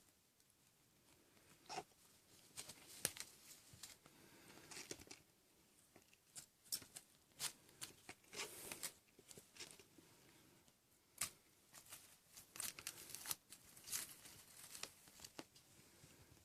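Kittens playing: faint, irregular taps, scratches and rustles from their paws and claws, with busier flurries of scrabbling now and then.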